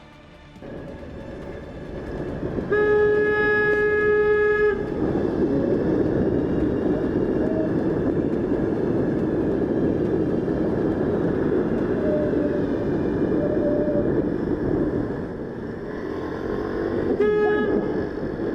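Vehicle horn blaring for about two seconds at a near miss, then a steady rush of wind and engine noise, with a second short horn toot near the end.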